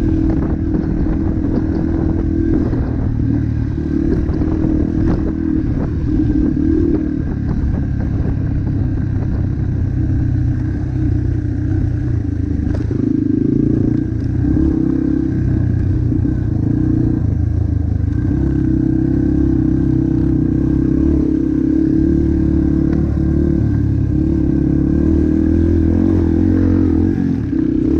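Motocross bike engine running hard and loud. Its note rises and falls again and again, with some clatter over it.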